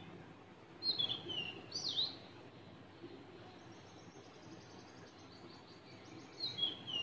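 A bird calling: short, high, falling chirps about a second in, again around two seconds in, and once more near the end, over faint room noise.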